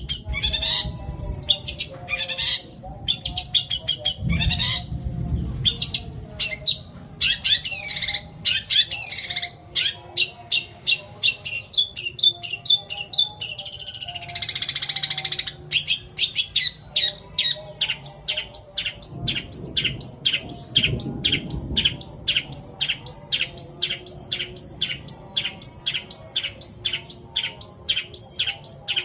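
Long-tailed shrike singing a long mimicry song: a varied run of quick chirps and twitters, a harsh rasping note about halfway through, then a fast, even series of repeated chirps at about three a second.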